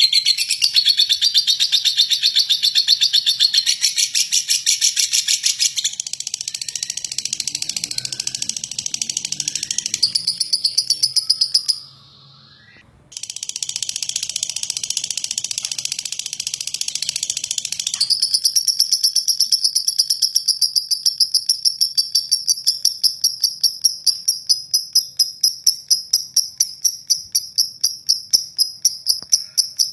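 Lovebird singing a long, rough, rapid rattling trill ('ngeklek'), which breaks off for about a second around twelve seconds in. From about eighteen seconds the song turns into a steadier, higher pulsed note repeating about four times a second.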